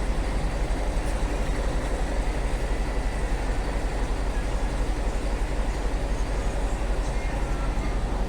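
Scania heavy truck's diesel engine running steadily under way, a continuous low throb with road noise over it.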